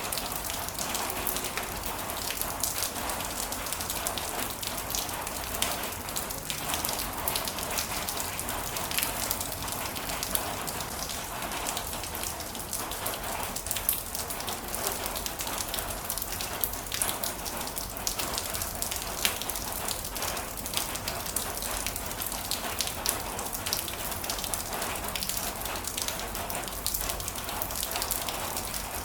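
Heavy rain falling steadily: a dense, even hiss with many separate drop hits scattered through it.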